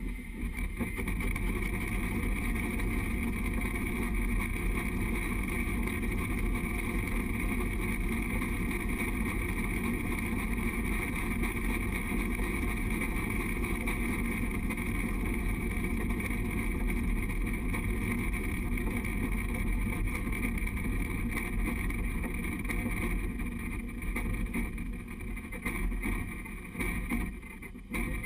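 Steady running noise of the Durango & Silverton narrow-gauge train: a low rumble of wheels on the rails mixed with wind on a camera mounted on the front of the train, easing a little near the end.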